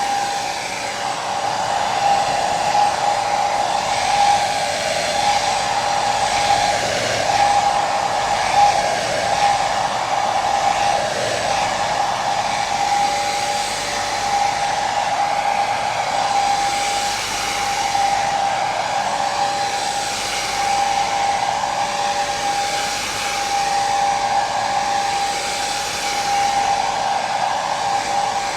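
Hair dryer running steadily: an even rush of blown air with a motor whine held on one pitch, the level swelling and easing slightly now and then.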